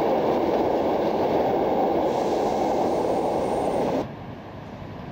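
Loaded car-carrier wagons of a motorail train rolling past, a loud steady rumble of wheels on the track, with a brief faint high squeal about three seconds in. About four seconds in the rumble cuts off abruptly to a much quieter, wind-like background.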